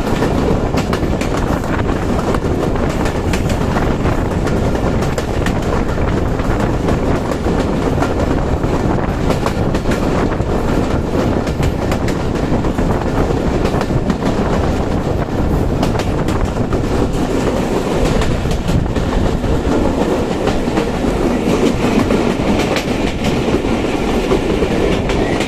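Passenger train coaches rolling along the track, a steady rumble with the clickety-clack of wheels over the rail joints.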